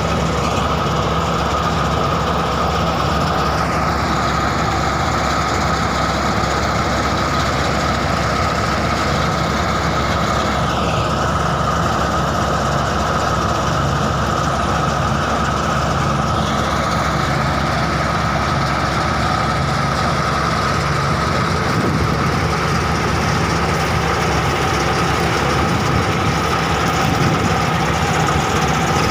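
Four-cylinder engine of a tudi (wheat-straw chaff) machine running steadily, with a steady high-pitched whine over its low hum.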